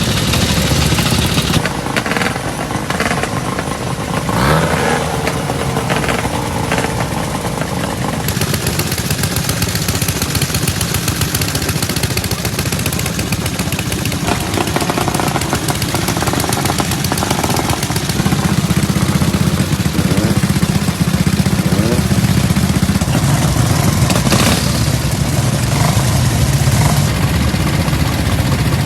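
A vehicle engine running steadily, its sound changing character a couple of seconds in, about eight seconds in and again about eighteen seconds in.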